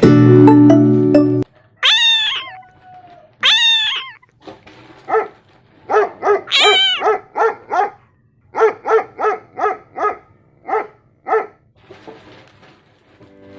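A dog gives two long whining calls that fall in pitch, then a run of short, quick barks with one more whine among them. Music plays for the first second and a half and cuts off suddenly.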